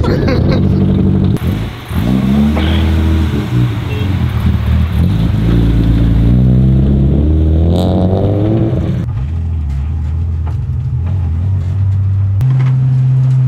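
BMW E36's engine revving hard, its pitch rising and falling repeatedly as the car slides. After about nine seconds it is heard from inside the cabin, running steadily, with a step up in pitch near the end.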